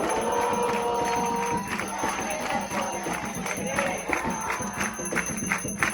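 Group singing a hymn to Xangô, with a held final note for about the first second and a half, then hand percussion keeping a steady beat with a jingling rattle.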